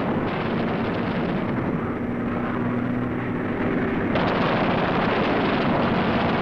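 Propeller aircraft engines droning in a dense, noisy roar with a low steady hum underneath, turning louder and harsher about four seconds in.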